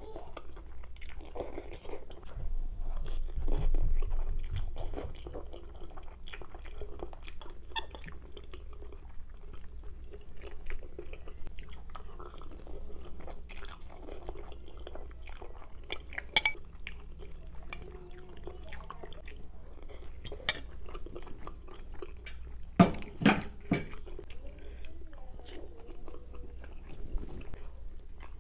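Close-up chewing of mouthfuls of spaghetti, with light clicks of a fork against a glass dish. Two sharp knocks about four-fifths of the way through.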